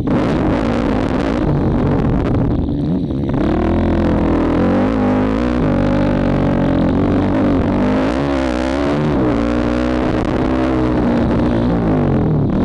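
2004 Honda CRF450R's single-cylinder four-stroke engine revving up and down under hard riding, with the throttle briefly shut off about two to three seconds in.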